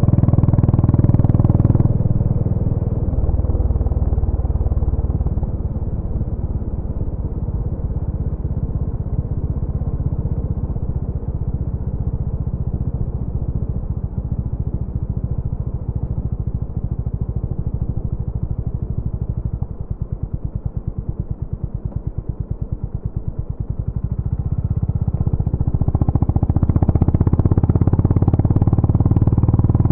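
Honda GB350's air-cooled single-cylinder engine running, its exhaust beating in even pulses. It is loud at first, eases off and dips lower, then swells up loud again near the end.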